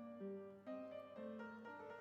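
Soft background piano music, a slow melody of single notes.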